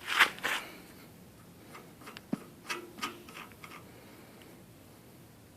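Metal clicks and clinks as the valve cover is taken off a Petter PH1 single-cylinder diesel engine. Two sharp clicks come right at the start, then a scatter of lighter taps with one sharper knock over the next couple of seconds.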